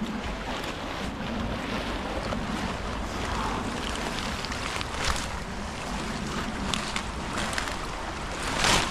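Wind buffeting the microphone over a steady rush of outdoor water noise, with scattered short crackles and knocks as muddy plastic debris is pulled and handled, the loudest near the end.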